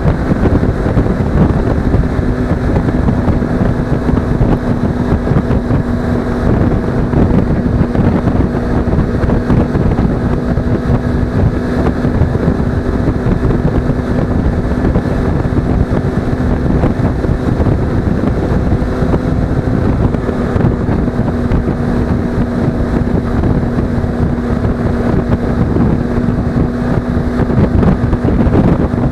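Suzuki V-Strom 250's parallel-twin engine running at a steady cruise, its note holding one pitch, with heavy wind buffeting on the action camera's microphone.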